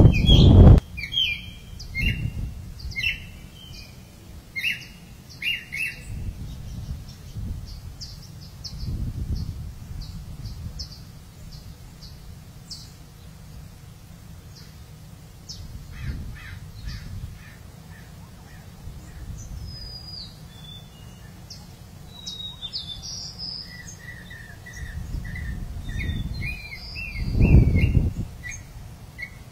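Wild birds chirping and calling over and over, with a few low rumbles rising and falling, the loudest shortly before the end.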